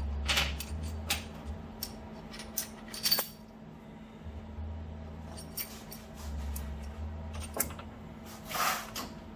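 A bolt and steel washers clinking and rattling as they are handled and fitted together into a homemade bushing puller: scattered light metallic clicks, with a short scrape near the end.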